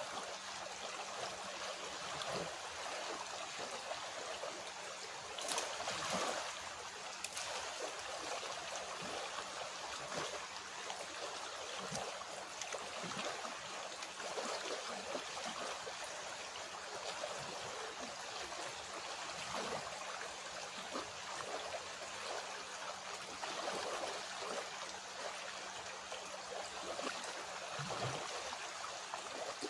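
Small clear-water creek flowing over stones: a steady rush of water with little trickles and gurgles, a few brief louder splashes about six seconds in.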